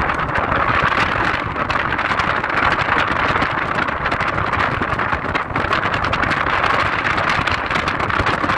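Steady road and wind noise from a car being driven.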